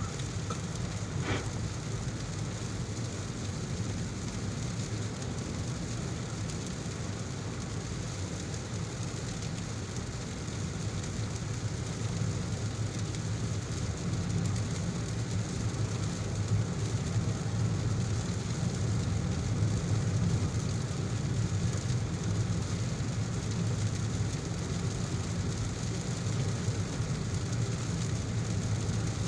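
Heavy rain with the steady low rumble of a car driving on a wet road, and a brief click about a second in.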